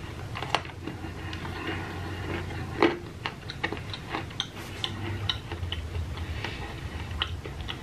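Close-up mouth sounds of a person biting and chewing a frosted sugar cookie: irregular small crunches and wet clicks, with one louder crunch about three seconds in.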